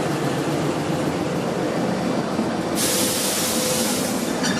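Narrow-gauge train running on rails with a steady rumble. About three seconds in, a sharp hiss starts, lasts about a second and a half and cuts off.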